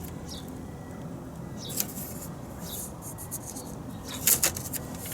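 Tape being handled and stretched against a car's sheet-metal body panel: short scratchy rips and rubbing, loudest about two seconds in and again a little past four seconds, over a steady low background rumble.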